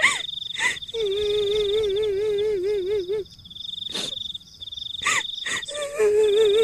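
Kuntilanak ghost-crying horror sound effect: a high, wavering wail held for about two seconds, breaking off, then starting again near the end. It sits over a steady, pulsing night-insect chirr, with a few short, sharp calls in between.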